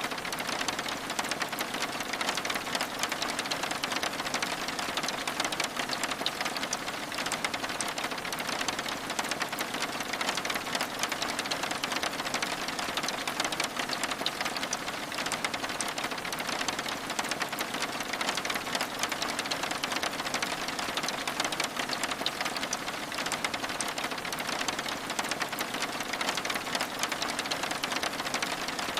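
Steady rain on window glass: a dense, even patter of countless fine drops with no let-up.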